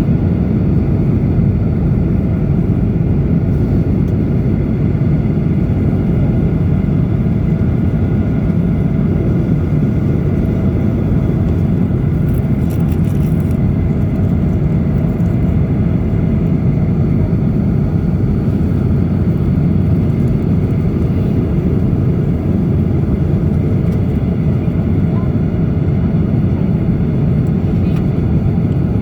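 Steady cabin noise of a Boeing 737-800 in descent: an even, low rumble of airflow and engines with a faint steady whine above it. A brief faint crackle comes about halfway through.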